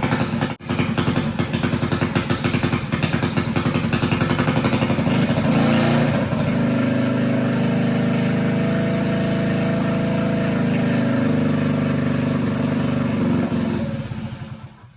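Top fuel mini bike engine running: fast, loud pulsing for about six seconds, then a steadier, evenly pitched drone that fades away near the end.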